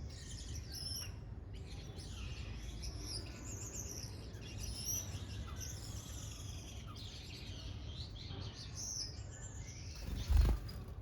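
Many small aviary birds chirping and twittering at once, short high calls overlapping one another. A dull thump about ten seconds in is the loudest sound.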